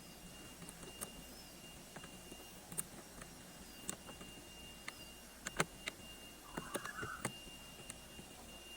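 Scattered light clicks and taps of small parts and tools being handled during a repair, with a short scraping rustle near the end and a faint steady high whine underneath.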